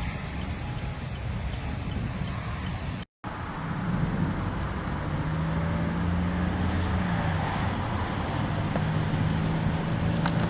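Car engine idling with a steady low hum under a hiss of wind and road-side noise. The sound drops out for a moment about three seconds in, where the footage is cut.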